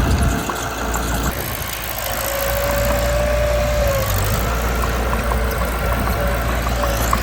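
Mitsubishi BD2 bulldozer's diesel engine running steadily with a low rumble. A steady whine comes in for about two seconds mid-way, and light ticks sound throughout.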